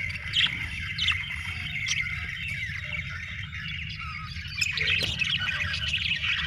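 A flock of budgerigars chattering and warbling, with sharp chirps about once a second at first and busier, louder chatter in the second half, over a steady low hum.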